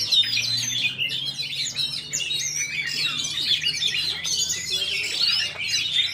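Many caged songbirds hung side by side at a bird-singing contest, chirping and trilling all at once in a dense, unbroken chorus of quick high notes.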